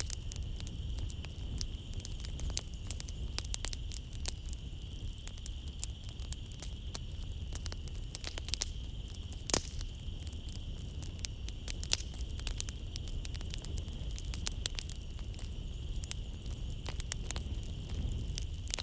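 Wood fire crackling in a fireplace: a constant run of sharp pops and snaps over a low rumble, with one louder pop about halfway through. A steady high chirring of night insects runs underneath.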